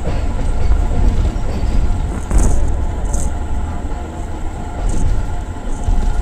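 Passenger train running, heard from an open coach window: a steady rumble of wheels on the track, with a few short, sharp high-pitched sounds about two and a half, three and five seconds in.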